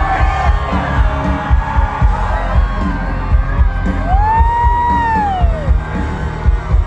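Live country concert music heard from within the crowd: a heavy thumping bass beat under singing, with crowd voices mixed in. About four seconds in, one voice holds a long note that rises and then falls away.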